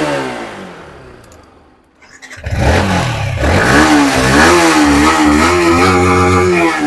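Motorcycle engine revving: the first rev dies away with falling pitch, then about two and a half seconds in the engine starts up and is revved up and down repeatedly.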